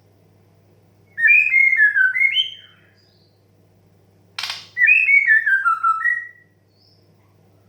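White-rumped shama singing two phrases of clear, sliding whistled notes, one about a second in and another about five seconds in, the second phrase preceded by a short harsh rasp.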